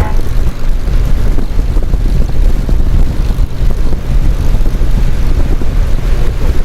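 Motorcycle engine running on the move, a steady low rumble with wind buffeting the microphone.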